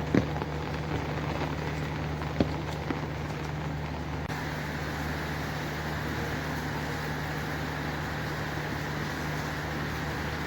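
Steady rain hiss over a continuous low mechanical hum, with a few sharp taps in the first three seconds. About four seconds in the hiss turns brighter and stays even.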